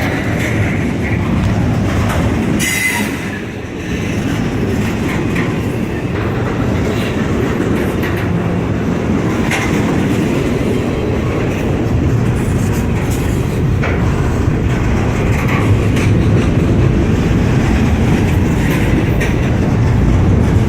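A freight train rolling past at close range: a steady heavy rumble of wheels on rail, with scattered clicks as the wheels cross rail joints and a brief wheel squeal about three seconds in.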